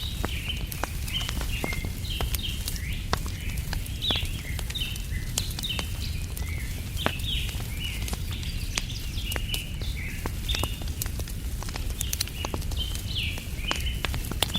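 Wood fire crackling with scattered sharp pops over a steady low rumble, under a continuous chorus of short, high bird chirps, several a second.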